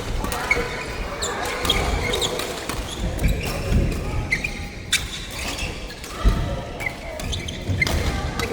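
Doubles racket-sport play on an indoor court: sharp racket strikes, the strongest about five seconds in, and sneakers squeaking on the floor.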